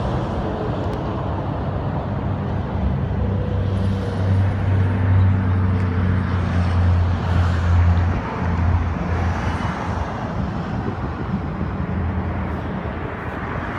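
A steady low engine hum over outdoor traffic-like noise, swelling louder for a few seconds midway.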